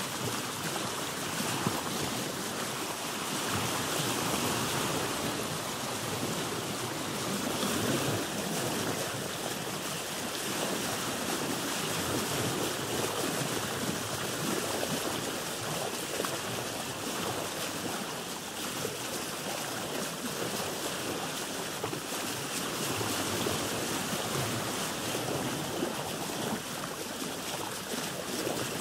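Sea water sloshing and lapping against a boat's hull, a steady wash of water noise that gently swells and eases, with a few small knocks.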